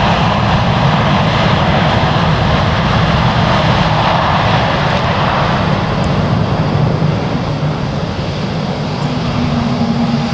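Jet engines of a Boeing 747-8F freighter, its four GEnx turbofans, running loud on the runway or taxiway, a dense steady roar that eases off a little over the last few seconds.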